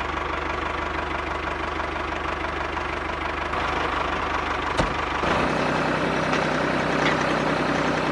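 Miniature model diesel engine running steadily with a fast, even beat; about five seconds in its tone shifts, the low end dropping away.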